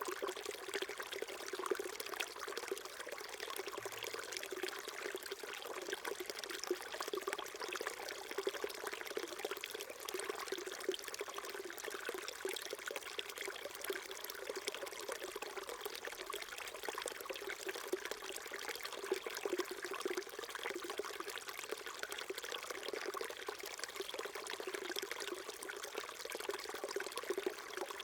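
Small brook trickling and gurgling in a steady, unbroken flow.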